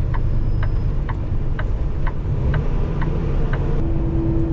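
Semi-truck cab interior: steady engine and road rumble with a turn-signal indicator clicking about twice a second; the clicking stops about three and a half seconds in, and a steady tone begins just after.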